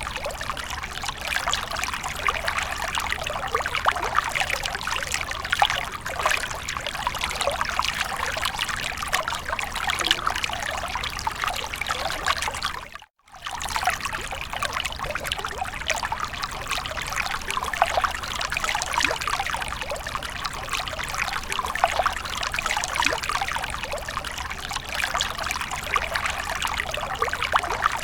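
Fountain water trickling and splashing steadily, cutting out for a fraction of a second about halfway through.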